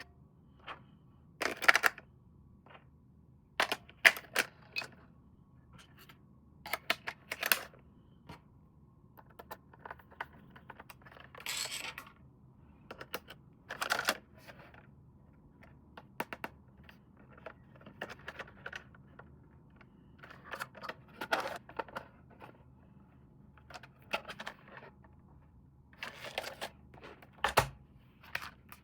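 Hands handling plastic toy parts and packaging: irregular clicks, taps and short rustles with pauses between them.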